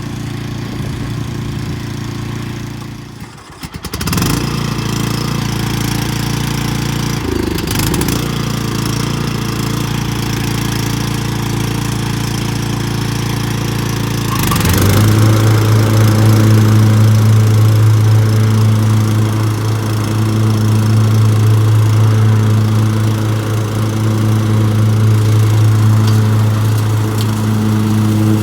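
Petrol lawn mower engine running steadily, dipping briefly about three seconds in and then picking back up. About halfway through it gets louder, settling into a stronger steady hum.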